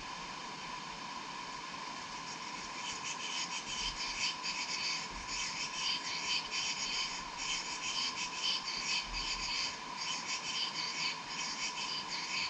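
Insects chirping in rapid, dense pulses that start about three seconds in, over a steady high hum.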